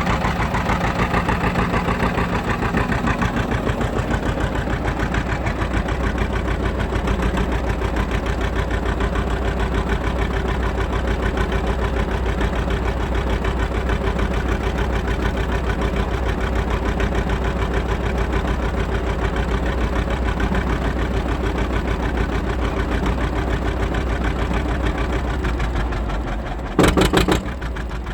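John Deere R's two-cylinder diesel engine running steadily with an even, fast pulsing beat. Near the end there is a brief loud burst of noise, and the engine sounds quieter after it.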